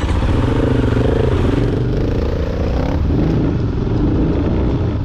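Dirt bike engine running, its pitch wavering up and down as the throttle changes.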